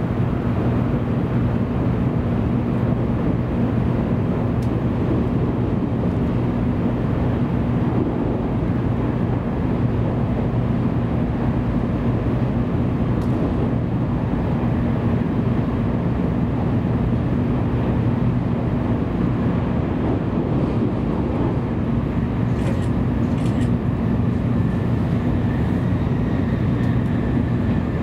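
Steady running noise of a Tokaido Shinkansen train at speed, heard inside the passenger cabin: an even rush and rumble with a constant low hum. A faint high whine comes in near the end.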